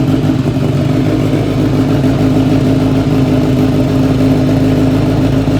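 Kawasaki Z1000's inline-four engine idling steadily and loudly through an aftermarket full exhaust system with a bomb-type muffler.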